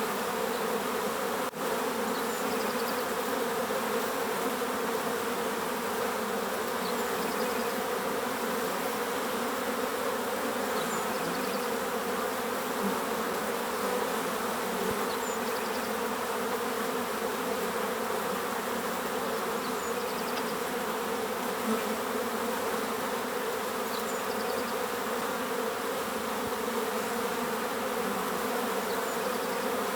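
A steady, dense buzz of many bees in flight, unbroken and even in level.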